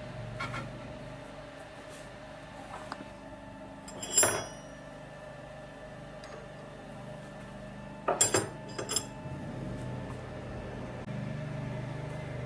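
Lathe running with a steady hum, with a metal-on-metal clink of tools being handled about 4 seconds in and two more close together around 8 to 9 seconds; the hum grows louder about 11 seconds in.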